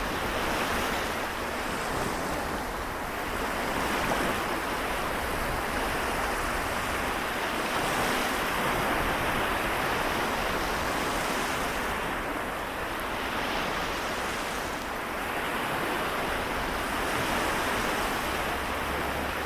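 Small waves washing onto the shore of the Seto Inland Sea, a steady wash of surf that swells and eases gently every few seconds.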